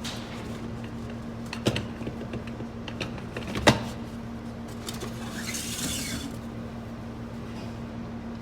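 Metal automatic-transmission parts handled on a workbench: a few sharp knocks, the loudest nearly four seconds in, and a brief scraping hiss around five to six seconds in, over a steady low hum.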